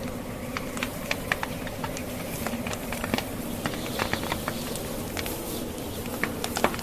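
Wood fire in a fireplace, logs crackling with frequent irregular sharp pops, over a steady low rush of wind from a blizzard.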